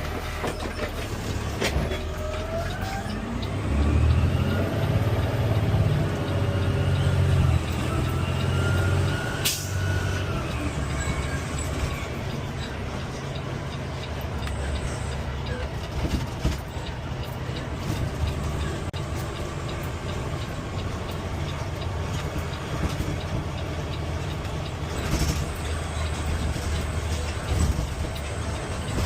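CNG Peterbilt 520 garbage truck running, its engine a steady low rumble, with rising and falling whines over the first ten seconds and a sharp click about nine and a half seconds in.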